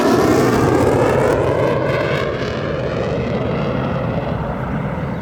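A jet aircraft flying past, a loud rushing roar that is loudest at the start and slowly fades, with a falling sweep in pitch as it goes by.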